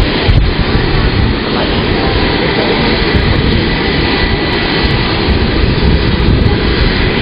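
Twin turboshaft engines of a UH-60J helicopter running during engine start-up: a loud, steady turbine noise with a thin, high whine held throughout.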